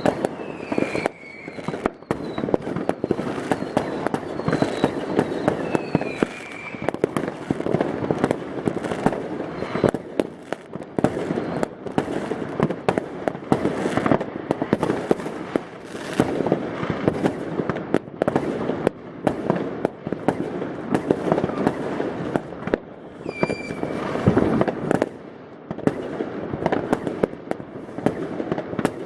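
New Year's Eve fireworks: a dense, unbroken barrage of bangs and crackling from many rockets and firecrackers going off at once. A few short whistles sound in the first several seconds and again a little past the three-quarter mark.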